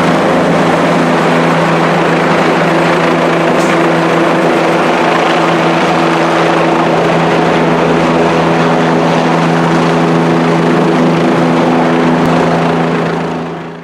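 Air ambulance helicopter landing, its rotor and turbine engine running loud and steady with a low, even hum under a broad rushing noise. The sound fades out near the end.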